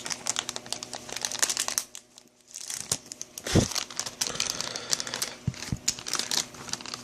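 Plastic packaging crinkling and tearing as a collectible is unwrapped by hand, in irregular bursts with a short pause about two seconds in.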